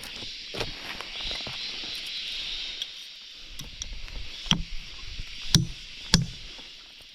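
Several sharp knocks, the three loudest in the second half, over a steady high-pitched hiss.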